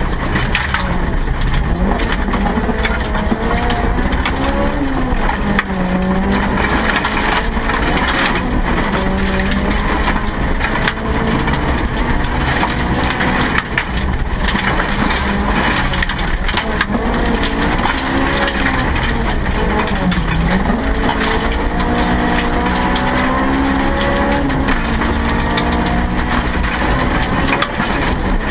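Inside the cabin of a Honda Civic hill-climb car with a B16B 1.6-litre VTEC four-cylinder, the engine revving hard, its pitch climbing and dropping back again and again through the gear changes. A constant crunchy rattle of gravel and stones thrown against the underbody runs beneath it.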